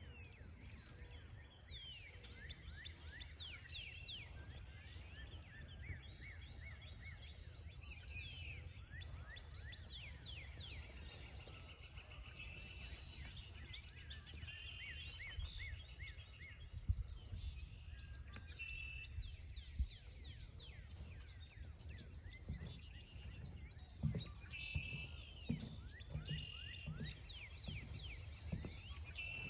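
Many songbirds chirping and calling at once, a dense chorus of short, quick down-sliding notes, over a steady low rumble, with a few soft thumps in the second half.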